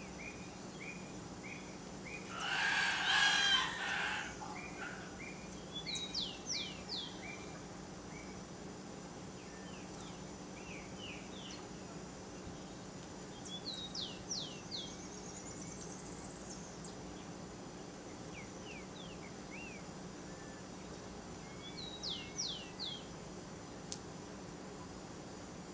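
Birds calling. A loud, drawn-out call comes about two to four seconds in, followed a few times by quick groups of three or four high, falling chirps, over a steady low hum.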